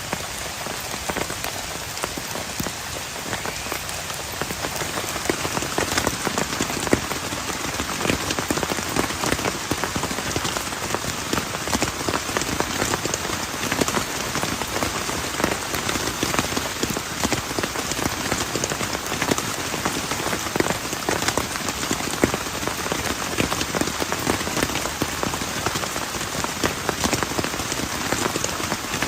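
Heavy rain falling steadily, a dense patter of drops striking a surface, a little louder after the first few seconds.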